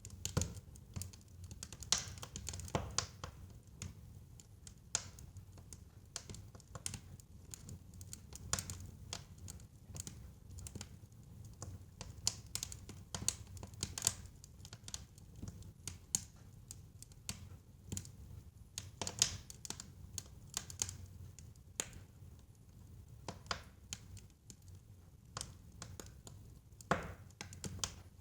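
Wood fire crackling in a fireplace: irregular sharp pops and snaps, many each second, over a steady low rumble of burning flames.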